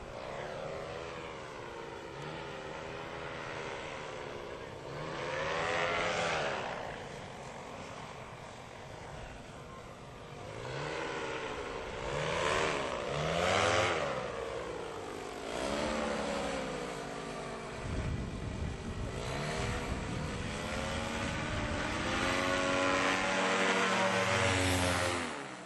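Paramotor engine and propeller running, the engine pitch rising and falling repeatedly as the throttle changes, with a rushing haze of wind and airflow. It is loudest in a long stretch near the end and drops away suddenly at the very end.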